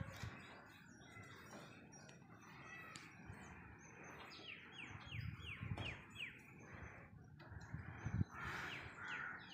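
Birds chirping faintly: a quick run of short falling chirps about halfway through and another near the end, over a low rumble with a few soft thumps.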